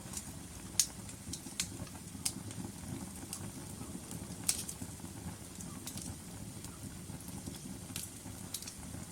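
Log fire in a fireplace crackling: scattered sharp pops and snaps, a loud one about a second in and another midway, over a steady low rumble of the flames.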